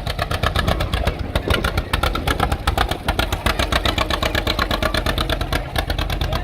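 A show car's engine running with a loud, fast, even exhaust beat.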